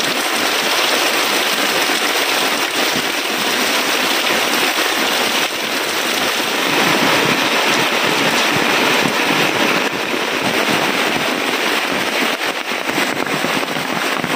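Heavy rain falling steadily, a loud, even downpour.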